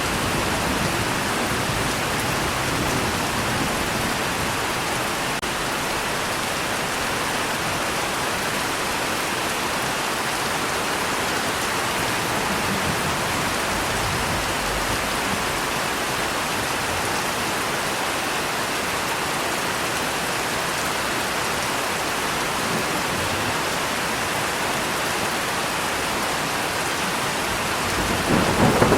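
Steady, even rain. A low rumble of thunder starts to build near the end.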